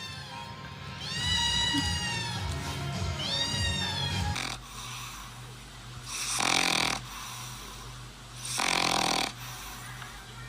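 Three drawn-out meows in the first four seconds, each rising then falling in pitch. Then comes a pet's slow snoring: a rasping breath about every two and a half seconds, three of them.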